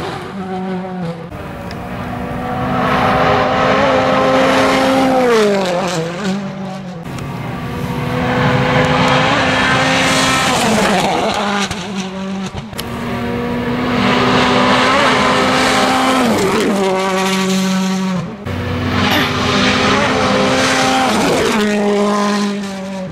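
Turbocharged World Rally Car engines running at high revs in a string of short clips. In each clip the engine note holds steady for a few seconds, then drops away.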